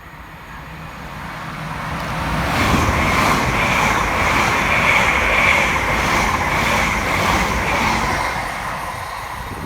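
Class 345 electric multiple unit passing through at speed: the train noise builds over the first few seconds, holds steady, then eases off near the end, with a steady high whine running through it.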